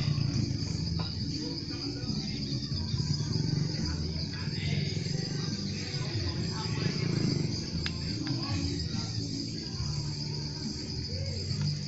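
Insects trilling steadily at a high pitch over the low, uneven rumble of a motorcycle engine.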